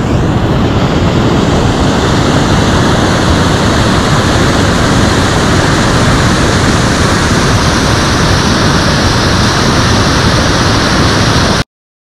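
Small waterfall rushing: a loud, steady rush of falling water that cuts off abruptly near the end.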